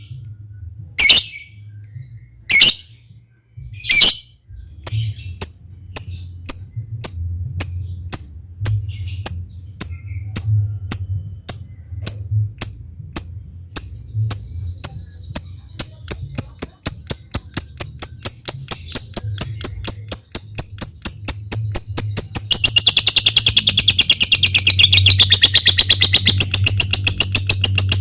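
Lovebird calling: a few sharp chirps about a second and a half apart, then a run of rapid ticking calls ('ngetik') that speeds up steadily. About 22 seconds in it breaks into a long, fast, continuous chatter, the 'ngekek panjang' trill.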